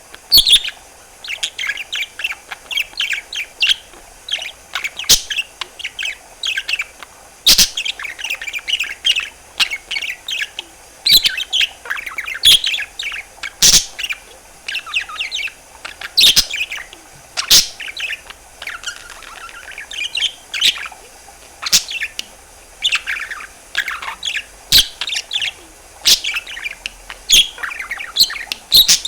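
Budgerigar warbling: a continuous run of rapid chirps, trills and short whistles, broken every few seconds by sharp clicks or pops.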